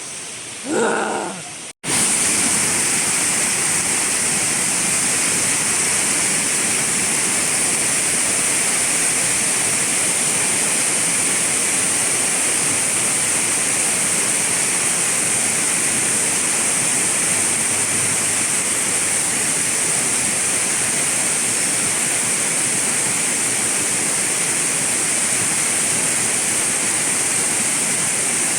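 Steady, loud rushing of a waterfall. It comes in abruptly about two seconds in, after a brief voice-like sound and a sudden dropout, and holds unchanged.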